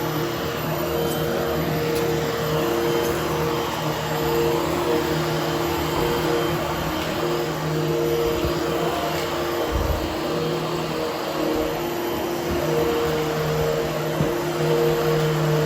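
Hoover HushTone upright vacuum running steadily while grooming a carpet, its motor hum wavering now and then as it is worked back and forth. A brief low thump about ten seconds in.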